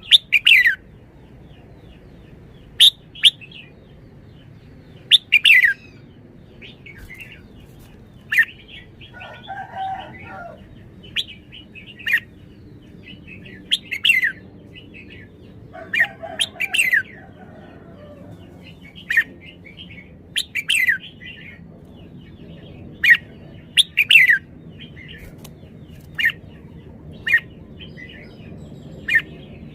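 Red-whiskered bulbul calling: short, sharp, downward-sweeping chirps repeated every second or two.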